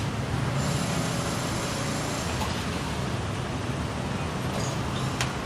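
Datsun Go Plus engine running at a steady idle, with a couple of light clicks near the end.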